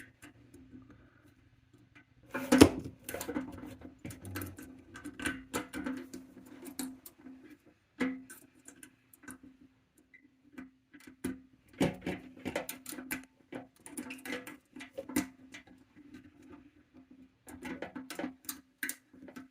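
Irregular small metallic clicks and scrapes of a flathead screwdriver and a pick working the sliding wafer pins of a motorcycle fuel-tank cap lock, with a steady low hum behind.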